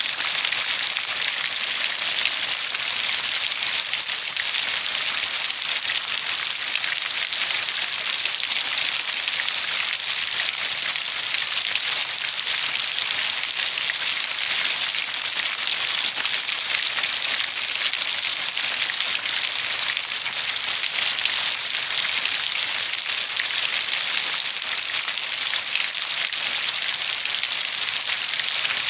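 Steady rain falling on a surface, an even, unbroken hiss with dense fine patter and no thunder.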